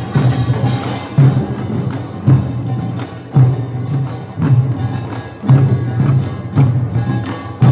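Korean farmers' band (nongak) percussion playing a steady rhythm. Deep drum strokes land about once a second, with lighter beats and sharp clicking strikes between them.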